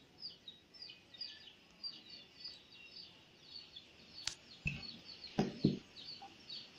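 A small bird chirping over and over, short falling chirps about three a second. About two-thirds of the way in, a sharp click and a few dull handling knocks.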